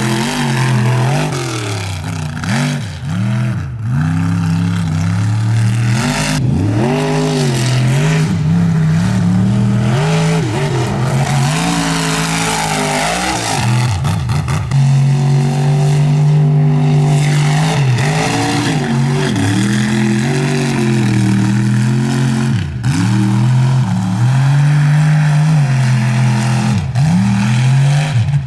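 Mud truck engine revving up and down again and again, with a stretch held at a steady pitch about halfway through.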